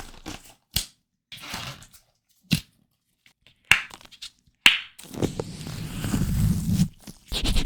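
Latex-gloved hands on a microphone: a few separate sharp squeaking strokes, then from about five seconds steady rubbing on the mic with a heavy low rumble, broken briefly near the end.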